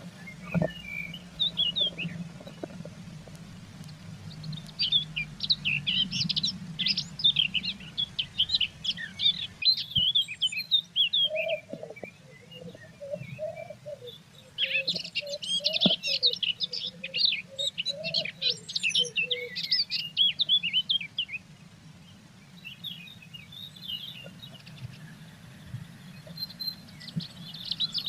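Small birds chirping and twittering in quick high bursts, with a lower run of short notes in the middle.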